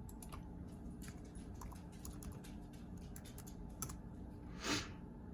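Computer keyboard keys clicking in a run of light, irregular taps, with one short rushing, hiss-like burst near the end, the loudest sound here.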